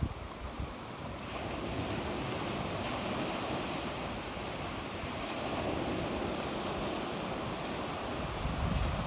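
Sea waves washing onto the shore, a steady surf that swells gently about a second in, with low rumbling wind buffeting on the microphone.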